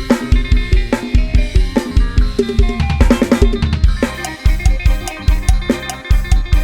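Fast Isan lam sing-style band music: an Addictive Drums 2 virtual drum kit plays a driving, steady bass-drum beat with snare hits, under a bass line and melodic instruments. A quick drum fill comes a little after three seconds in, then the beat carries on.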